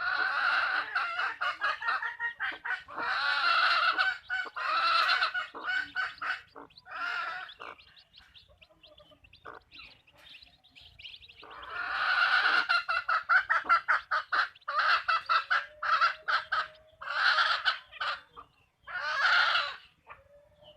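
Hens clucking in rapid runs of short calls. They fall quiet for a few seconds in the middle, and a few longer, drawn-out calls come near the end.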